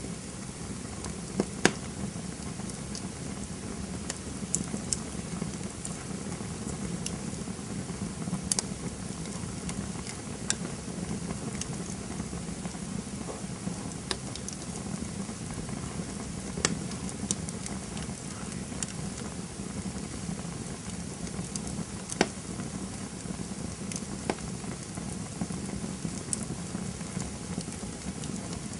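Campfire crackling: a steady hiss with irregular sharp pops and snaps scattered through it, the loudest about one and a half seconds in.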